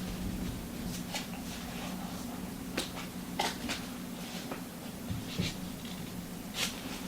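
Paper rustling as book pages are handled and turned, in a few short, soft strokes scattered through, over a steady low hum.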